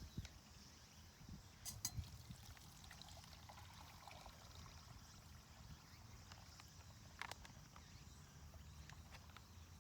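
Near silence: quiet outdoor ambience with a few faint clicks and knocks, the clearest about two seconds in and near the seven-second mark.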